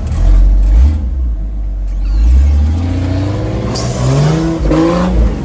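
Engine-swapped Suzuki Jimny's engine revving hard under load on a steep off-road climb, heard from inside the cabin. A heavy low rumble gives way to an engine note that rises in pitch through the second half.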